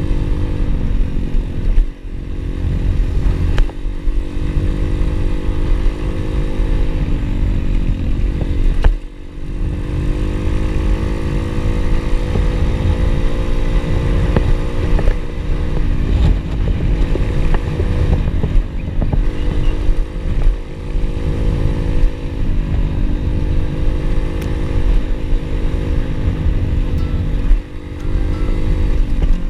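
Single-cylinder pit bike engine running under way, its pitch rising and falling with the throttle, with a heavy low rumble underneath. The engine note dips briefly about two seconds in and again about nine seconds in.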